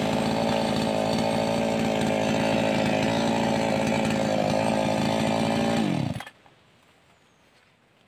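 588X two-stroke chainsaw engine running at a steady speed. About six seconds in it is switched off and winds down with a falling pitch to a stop.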